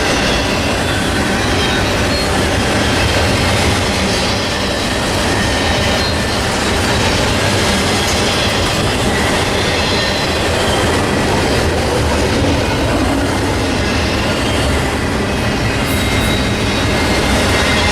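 Freight train of container stack cars rolling steadily past, loud and close, the wheels clattering over the rails with faint high wheel squeal.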